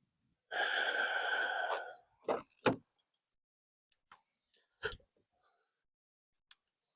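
A long breathy sigh lasting just over a second, followed by a few short sharp clicks and knocks.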